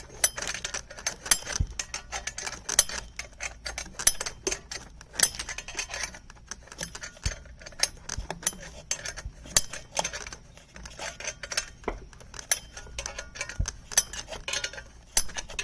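Rapid, irregular metallic clicking and clinking of a hand tool on the bolts and aluminum frame of a chainsaw mill being tightened up.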